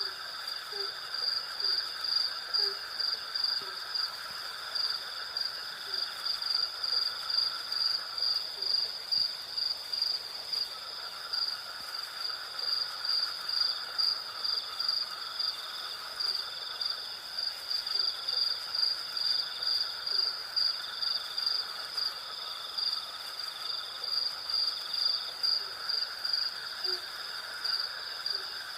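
Night insect chorus: crickets chirping in a high, even pulse about twice a second over a steady lower insect drone. Short low calls sound now and then underneath.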